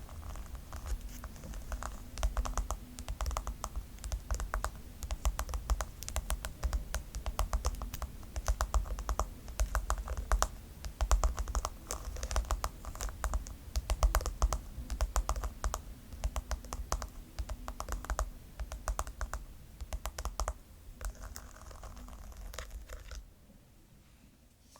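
ASMR tapping on a pink brush: a fast, irregular patter of sharp clicks with soft thumps underneath, stopping about 23 seconds in.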